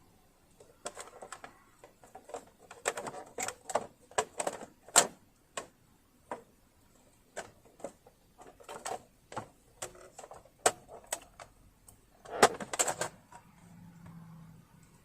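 Irregular clicks and knocks, some in quick clusters and the loudest about five seconds in and near the end, from tools and parts being handled on a partly disassembled Bernina Holidayne 1090 sewing machine.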